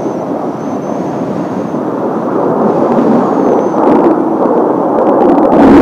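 Kawasaki T-4 jet trainers flying past: a dense jet roar that grows steadily louder, with a faint high whine over it in the first few seconds.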